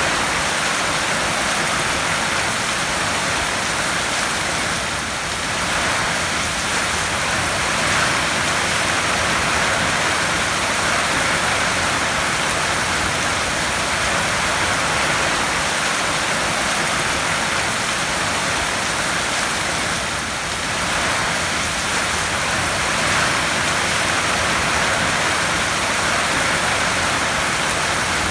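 Heavy rain drumming on a tin roof: a steady, dense patter.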